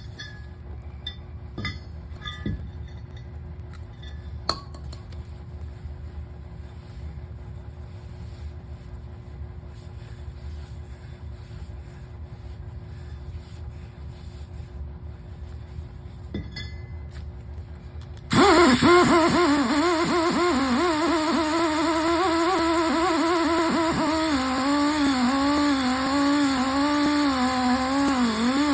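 A few light metallic clicks and clinks against a quiet background. Then, about two-thirds of the way in, a Toro Dingo TX1000 mini skid steer comes in suddenly, running loud and steady with a wavering whine.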